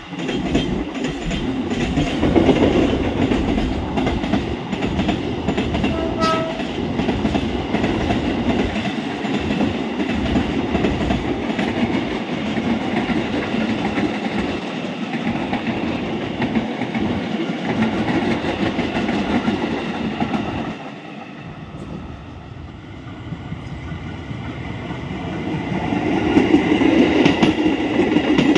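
Long container freight train rolling past close by, its wheels rattling steadily over the rail joints, followed by electric commuter trains passing on the neighbouring track. A brief tone sounds about six seconds in, and the noise dips a little past twenty seconds before rising again as a commuter train comes close.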